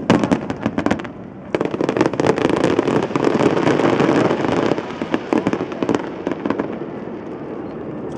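Fireworks display going off: dense rapid bangs and crackling, with a short lull about a second in, then thinning out and getting quieter after about five seconds.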